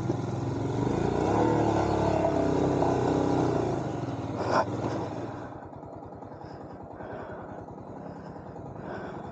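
Royal Enfield Himalayan's single-cylinder engine running as the motorcycle rides a dirt trail, the revs rising and then falling, with a short knock. About halfway through it drops to a quieter, steady idle as the bike comes to a stop.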